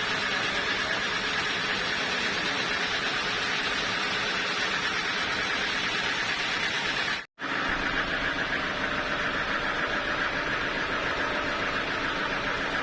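Sawmill machinery running steadily, a constant loud mechanical noise. It cuts out for an instant about seven seconds in, then resumes unchanged.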